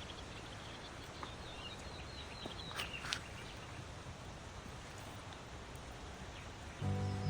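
Small birds chirping faintly over a steady outdoor hiss, with two sharp clicks about three seconds in.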